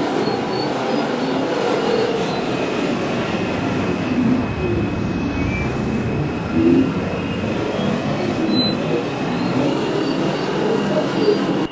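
R142 subway car running along the track, a steady rumble and rush of wheels and motors with faint high tones above it. There is a brief louder bump a little past the middle.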